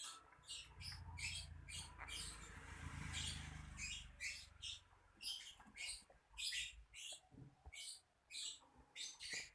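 Lovebird chirping: a long run of short, high chirps, about two a second. A low rumble sits under the first few seconds.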